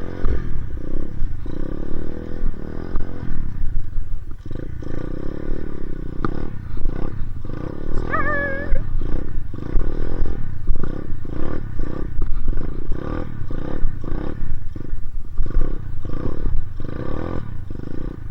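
Dirt bike engine revving up and down over and over in quick surges while riding through deep snow.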